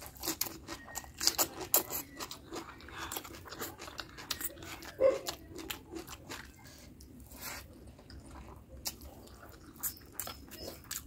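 Close-miked eating sounds: chewing a mouthful of mutton curry and basmati rice, with many sharp wet mouth clicks, dense at first and thinning out after about four seconds, and one louder click about five seconds in. Fingers mix rice on the plate.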